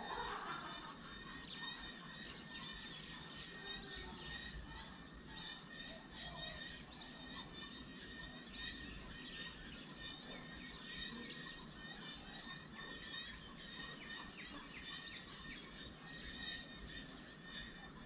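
Birds chirping outdoors, with many short calls scattered through, over a faint steady background noise.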